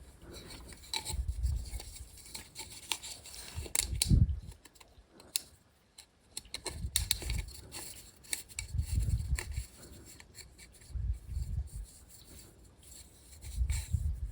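Irregular rubbing and scraping, with scattered sharp clicks and dull knocks coming in uneven clusters, as from hands working with tools and parts.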